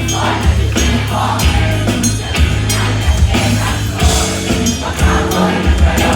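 Live rock band playing with drums and bass guitar, a steady driving beat with cymbal hits, with no lead vocal in this passage.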